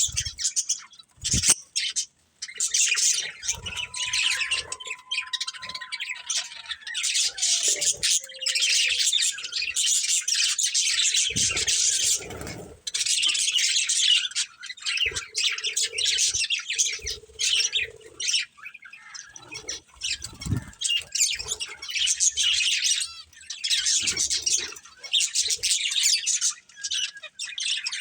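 Budgerigars chirping and chattering in rapid high twitters, coming in bursts of a few seconds with short pauses between.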